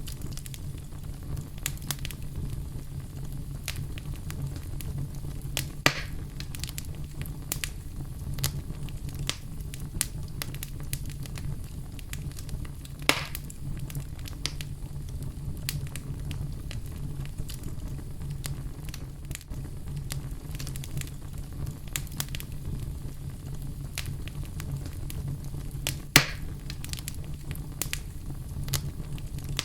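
Wood fire burning in a fireplace: a steady low rumble of flames with irregular crackles and snaps, and a few louder pops about 6, 13 and 26 seconds in.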